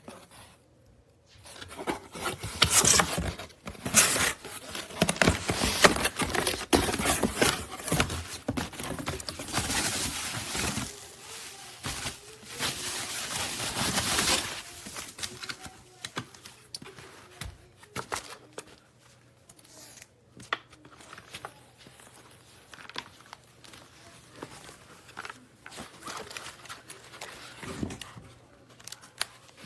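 Packaging being handled: crinkling, rustling and tearing in loud irregular bursts through the first half, then quieter scattered rustles and clicks.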